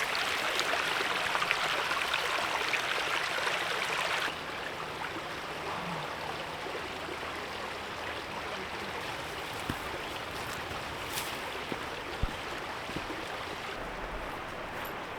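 Creek water running, a steady rushing. It is louder for about the first four seconds, then drops suddenly to a softer, steady flow with a few faint clicks.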